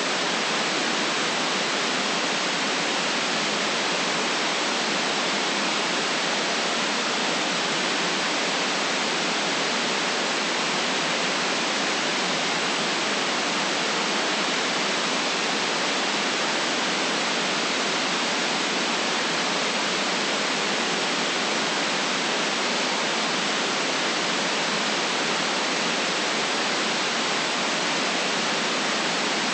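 Steady, unchanging white noise: an even hiss with no rhythm or events, cut off below about 150 Hz and above about 9 kHz.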